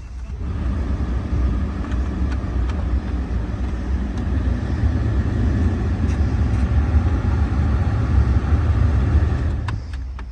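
The 2014 Ford F-150's 5.0-litre V8 engine running steadily, a low even rumble that starts just after the opening and dies down near the end.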